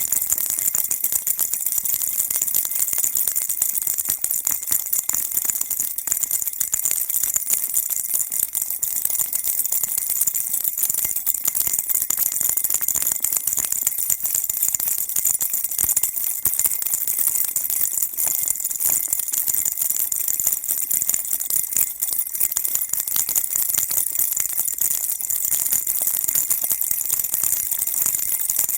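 Baby rattle shaken continuously, a steady, dense stream of small rattling and jingling clicks, bright and high-pitched.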